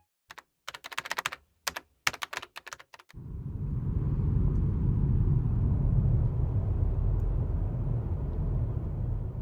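Quick clicks like typing on a computer keyboard for about three seconds, then a steady low rumble fades in and carries on.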